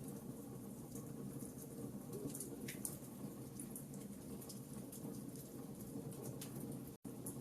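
Wood fire crackling in a fireplace: scattered sharp pops and ticks over a steady low background. The sound cuts out for an instant near the end.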